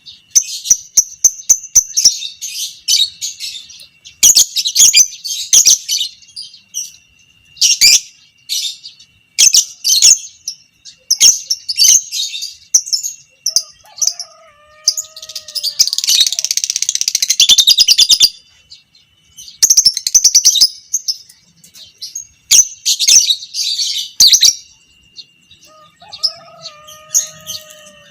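A fighter-type lovebird chattering in short bursts of high, shrill chirps, breaking about two-thirds of the way in into one long unbroken chattering trill of about three seconds: the prized 'ngekek panjang'.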